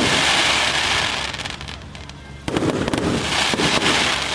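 Aerial fireworks bursting: a sudden loud report about two and a half seconds in, each burst trailing off in a dense crackling hiss that slowly fades.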